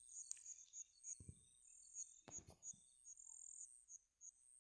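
Near silence with faint, high-pitched cricket chirping that repeats evenly, and a couple of soft knocks.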